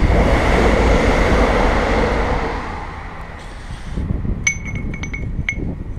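A loud rushing noise for about three seconds, fading away, then a quick run of bright metallic pings, all at the same ringing pitch, starting about four and a half seconds in.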